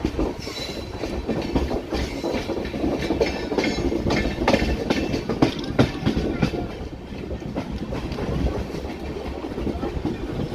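Moving passenger train: wheels clattering over rail joints and points, with irregular sharp clicks and clanks over a steady low rumble.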